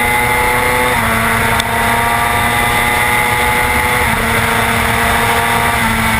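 Superbike's engine running onboard at fairly steady revs, with small changes in pitch about a second in and again around four seconds, over a steady rush of wind and road noise.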